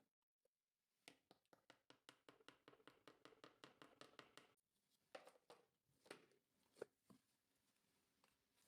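Faint, quick run of light taps for about three seconds, then a few separate knocks: small handling sounds.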